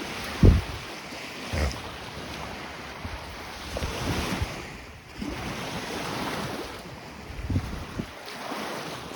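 Waves washing on the lakeshore under wind gusting on the microphone, with a few short low thumps from the wind buffeting it.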